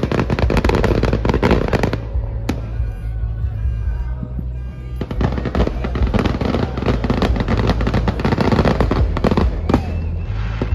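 Fireworks display: a dense, rapid string of bangs and crackles, with music playing underneath.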